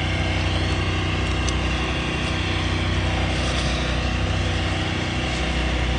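An engine idling with a steady hum.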